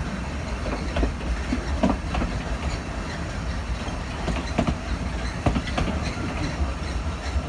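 A railway carriage rolling slowly along the track: a steady low rumble with irregular clicks of the wheels over the rail joints, heard in the open from the outside platform of the carriage.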